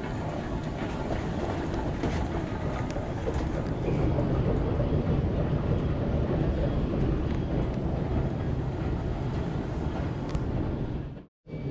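Steady rumble of a moving vehicle, a little louder from about four seconds in, cut off abruptly by an edit just before the end.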